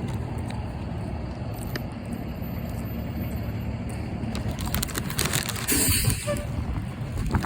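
Wind buffeting the microphone as a steady low rumble, with scattered clicks and a short rustle about six seconds in.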